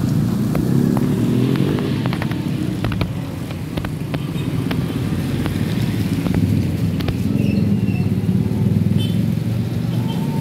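Coconut milk press machine running: a steady motor drone with scattered sharp clicks.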